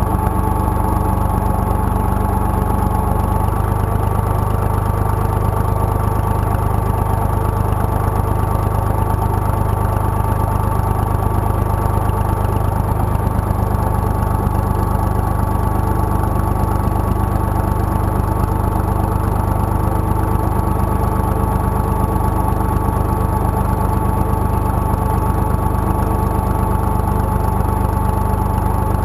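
IMT 2050 tractor's diesel engine running steadily, with a slight change in its note about three seconds in.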